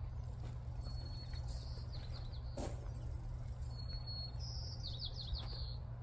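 A songbird singing two phrases, about a second in and again near four seconds in. Each is a thin high whistled note followed by a quick run of trilled notes, over a steady low rumble.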